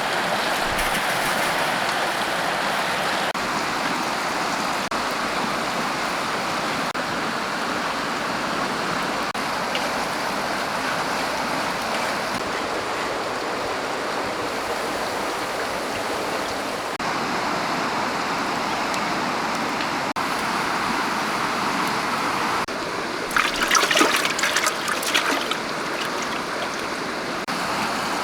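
Steady rushing of a flowing stream, shifting abruptly in level a few times. A short cluster of sharp splashing or knocking sounds, the loudest part, comes about three-quarters of the way through.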